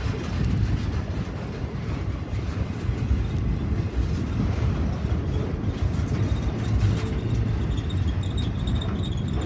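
A train passing close by, a steady heavy rumble of rolling wagons with no clear breaks.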